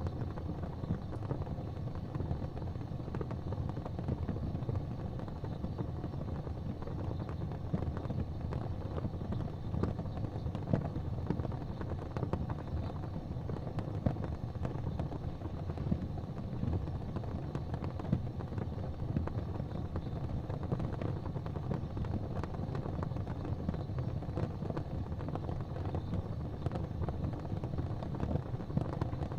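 Fireplace fire burning with a steady low rumble and scattered sharp crackles and pops.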